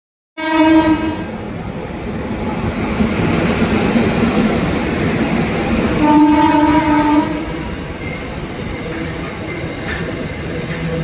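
Train horn sounding twice over the steady rumble of a running train: a short blast right at the start, then a longer one of about a second some six seconds in.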